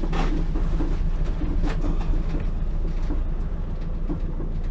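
EK Honda Civic's turbocharged K20 engine running steadily, with a few light clicks over it.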